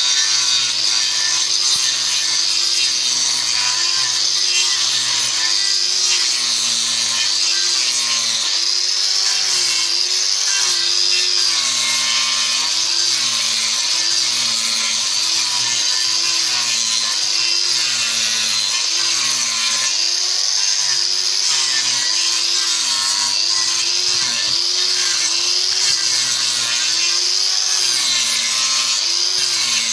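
Electric power tool cutting and shaping wood without a break, its motor pitch dipping and recovering every second or two as it is pressed into the work.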